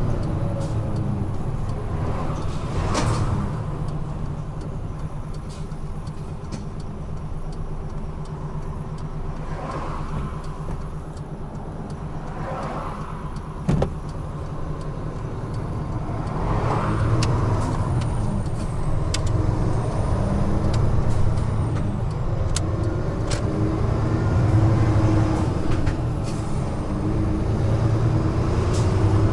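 Large truck's diesel engine running with steady road noise, heard from inside the cab while driving on the expressway. A single sharp knock comes about halfway through, and the engine and road noise grow louder in the second half.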